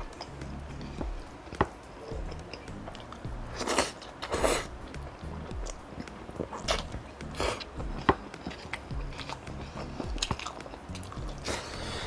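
Close-miked chewing and mouth sounds of a person eating rice and vegetables by hand: many short wet clicks and smacks, with a few longer squelchy moments. Faint background music plays underneath.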